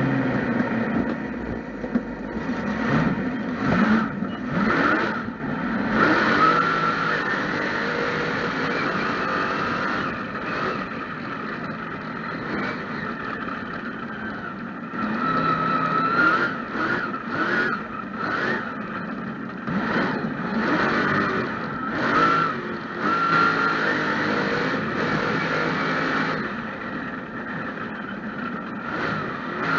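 Mega truck's engine revving hard in repeated surges and dropping back between them, heard from the driver's seat.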